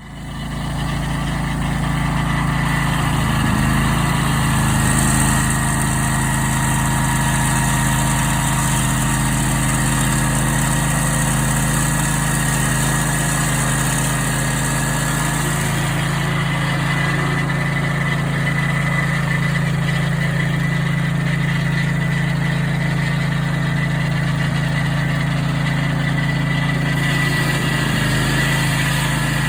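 Sawmill engine running steadily after starting abruptly out of silence. A higher hiss joins in for several seconds partway through, likely the blade working through the log.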